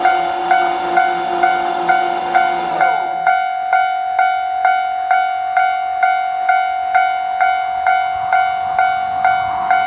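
KiHa 40 diesel railcar running past and dropping away about three seconds in, under a Japanese level-crossing warning bell ringing steadily about twice a second.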